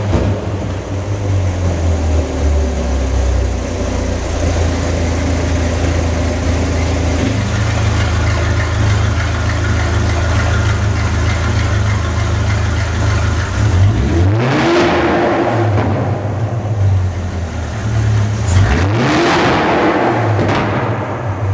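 Ferrari 458 Speciale's naturally aspirated V8 through a valved Fi Exhaust system, holding a steady low drone, then revving up sharply twice in the second half, each time rising in pitch and falling back.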